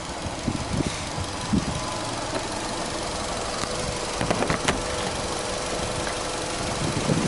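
Subaru Legacy 2.0GT spec B's turbocharged EJ20 flat-four (boxer) engine idling steadily, heard near the open engine bay. A few short knocks, the loudest cluster about four and a half seconds in.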